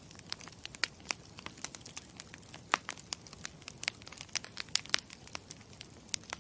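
Crackling campfire: a steady low hiss of burning wood with many irregular sharp pops and snaps.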